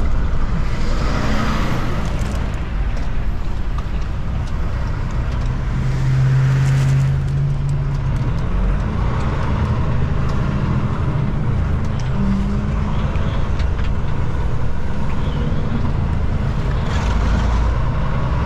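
Semi truck's diesel engine running with road noise, heard from inside the cab; the engine note shifts in pitch a few times.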